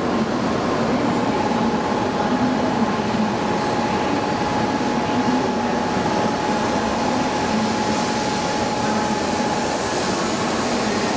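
Shinkansen inspection train (923-3000 series Doctor Yellow) pulling slowly into a covered station: a steady rumble, with a steady high whine from about a second in until near the end.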